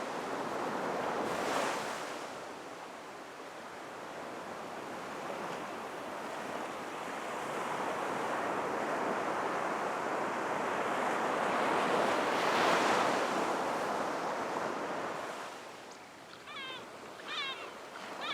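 Surf breaking and washing up a beach, swelling about a second in and again around twelve seconds in, then ebbing. Near the end come a few short, high bird calls.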